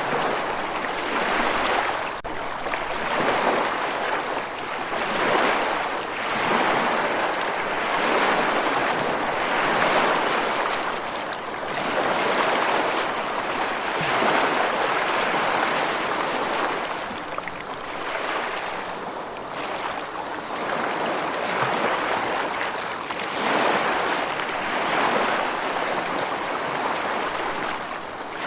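Steady rushing water, swelling and easing every few seconds.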